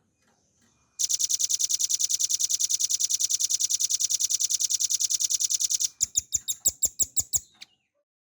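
Velvet-fronted nuthatch singing: a rapid, even trill of high notes lasting about five seconds, then a short run of about eight slower, separate notes that stops.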